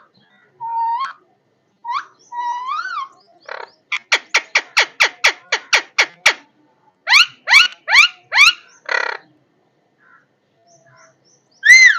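Parrot calling: a few short rising whistles, then a quick run of about ten short, sharp calls, about four a second, then a series of louder rising squawks and one harsher call. After a pause, a loud call comes at the end.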